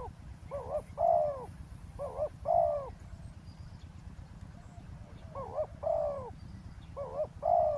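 Spotted dove cooing: four short two-note coo phrases, with a pause of about two seconds in the middle, over a steady low rumble.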